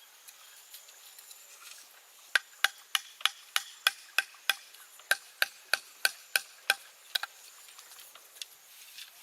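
Steady rhythmic striking with a hand tool: about fifteen sharp knocks, roughly three a second, starting a couple of seconds in and stopping about two seconds before the end.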